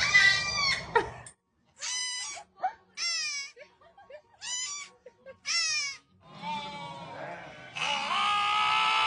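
Goat bleating: a run of short, wavering calls about a second apart, then one long drawn-out bleat near the end.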